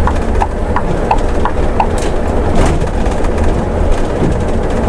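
Scania coach cab noise: a steady low drone of engine and road. Over it runs a quick series of short ticks, about three a second, that stops about two seconds in.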